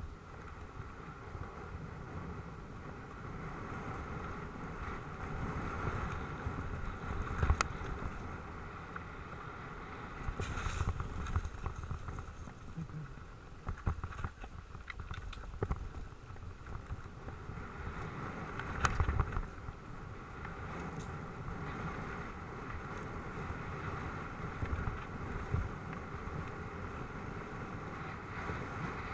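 Mountain bike riding over a dirt track: a steady rush of wind on the microphone and tyre rumble, with sharp knocks and rattles from bumps about a quarter, a third and two thirds of the way through.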